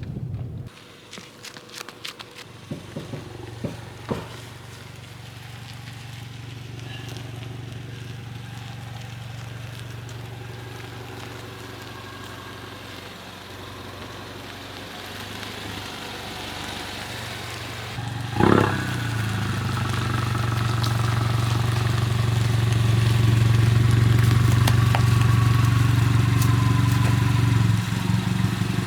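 Ford Mustang EcoBoost's turbocharged 2.3-litre four-cylinder engine running at low speed while the car backs up. About two-thirds through there is a sudden loud sound, and the engine then runs louder.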